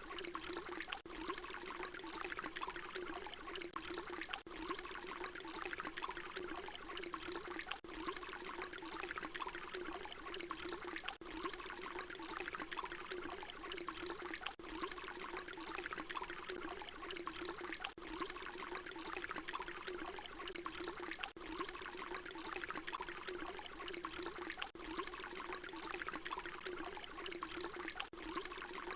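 Water pouring in a steady stream, with a brief dip about every three and a half seconds where the short recording loops.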